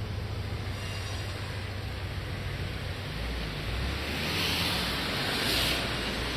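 Sea waves washing on the shore, swelling into a hiss about four seconds in and again near the end, over a low steady hum.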